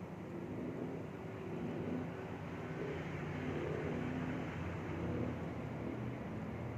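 Steady low hum and hiss, with faint wavering tones underneath, getting a little louder after about two seconds.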